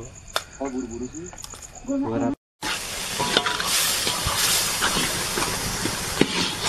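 Brief men's talk, then after a cut a loud, steady sizzle of food frying in a steaming wok, with a few sharp clicks.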